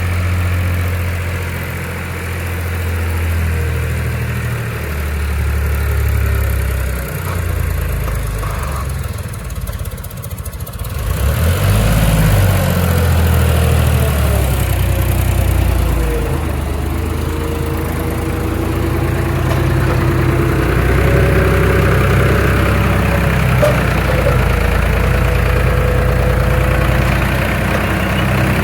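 Heavy diesel engine running at low speed, with a brief dip about ten seconds in, then running louder, with a wavering pitch, to the end.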